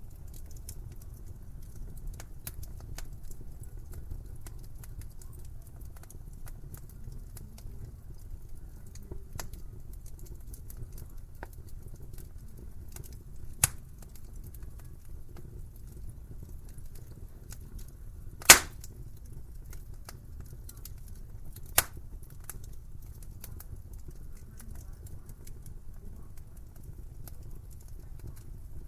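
Wood fire burning in a fireplace: a steady low rumble of flames with frequent small crackles, and three sharper pops from the burning logs, the loudest a little past the middle.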